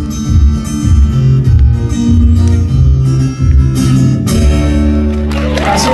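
Acoustic guitar playing the closing bars of the song, strummed chords over low bass notes, ending on a held chord. Near the end the audience starts to applaud and cheer.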